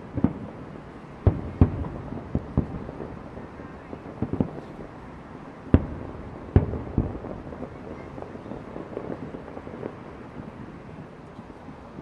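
Aerial fireworks shells exploding in a display: a string of irregular sharp booms, several close together and loudest in the first seven seconds, then fewer and fainter, over a steady low background noise.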